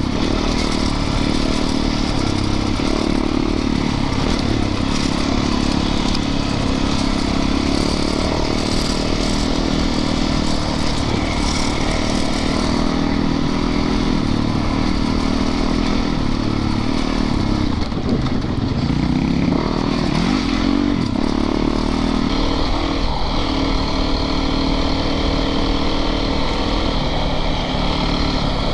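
Yamaha YZ450FX dirt bike's single-cylinder four-stroke engine revving up and down as it is ridden over a rough, rocky trail, with wind rush on the microphone.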